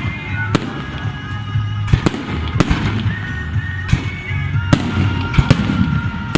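Fireworks display: a string of sharp bangs and cracks, roughly one every half second to a second, over the hiss and whistle of shells.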